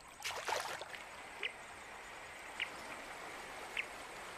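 Running river water, with a splash just after the start. A short high chirp from a small animal repeats about every second and a bit.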